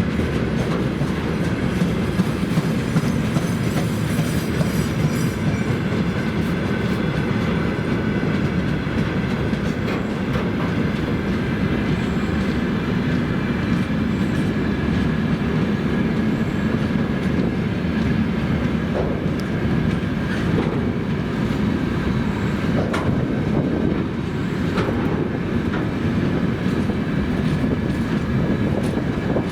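Freight train wagons rolling past on the rails in a steady, loud rumble, with wheel clatter over the rail joints and a faint wheel squeal.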